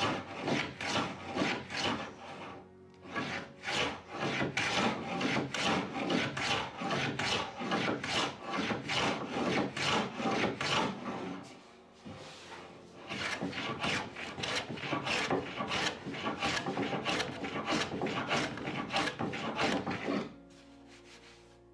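Rapid back-and-forth hand abrading of a wooden door surface, about three strokes a second, taking down a high spot. There is a short pause about twelve seconds in, and the strokes stop near the end.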